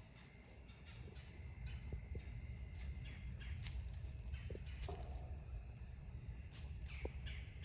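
Crickets chirring in a steady, unbroken high-pitched trill, faint, over a low background rumble.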